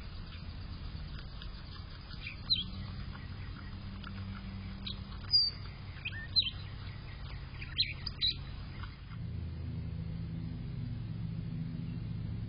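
Small birds chirping, a few short high calls spread over the first nine seconds, over a steady low hum. About nine seconds in the calls stop and the low hum changes and gets a little louder.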